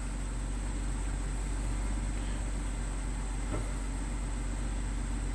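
2007 BMW xDrive wagon's engine idling steadily, a low even hum with no change in speed.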